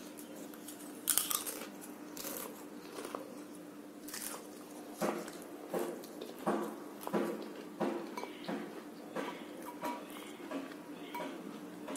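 Crunchy chewing of papdi gathiya, fried chickpea-flour strips, close to the microphone. A few crunches come early, then a fairly even run of about one every 0.7 s from around five seconds in, over a faint steady hum.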